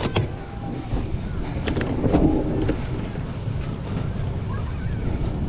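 Wind buffeting the microphone of a camera riding along on a cyclocross bike at race pace, a steady low rumble, with sharp clicks and rattles from the bike going over rough ground.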